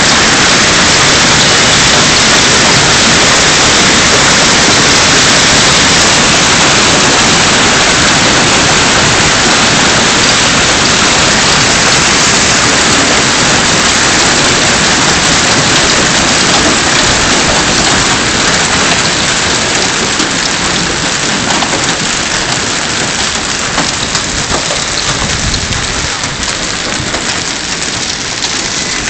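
Heavy rain pouring down in a severe thunderstorm: a loud, dense, steady hiss that eases slightly in the last third.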